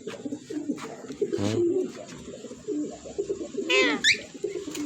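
Pet bird calling: low, warbling coos throughout, with a short higher call about a second and a half in and another, sweeping up and down, near the end.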